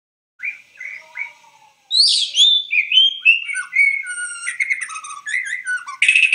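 A songbird gives three short calls, then sings a fast run of varied whistled notes gliding up and down. The song ends in a short harsh buzz.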